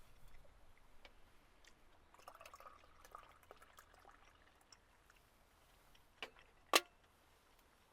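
Liquid poured briefly amid scattered light drips and ticks, then two sharp knocks near the end, the second the loudest.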